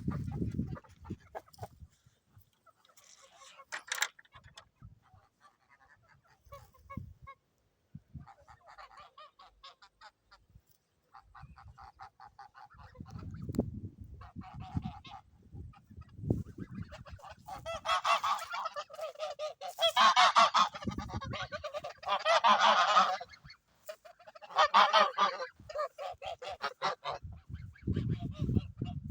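Geese honking: scattered harsh calls that grow louder and come in a dense run through the second half, with some intermittent low rumbling underneath.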